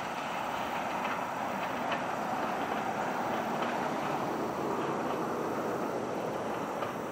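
Steam-hauled excursion train rolling away along the track: a steady rumble from the cars, with faint clicks of wheels over the rail joints.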